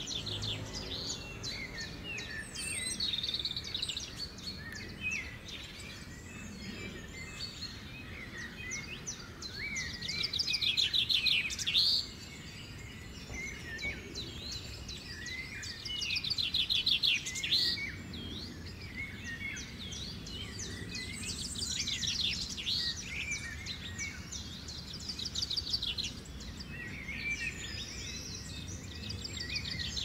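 Several songbirds chirping and singing, with loud, rapid trills about ten and seventeen seconds in.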